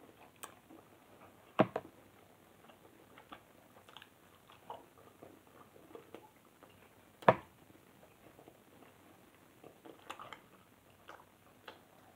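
A person chewing food with small scattered mouth and eating noises. A metal fork clicks sharply against a plastic food container twice, a quick double click about a second and a half in and a single click about seven seconds in.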